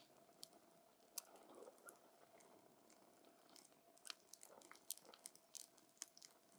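Wood campfire crackling quietly: irregular sharp snaps and pops from the burning wood over a soft hiss, coming thicker from about four seconds in.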